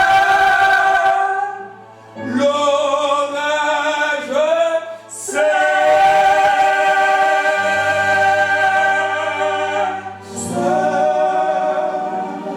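A man and a woman singing a French gospel song together, drawing out its closing words in three long held phrases over steady, sustained low accompaniment notes.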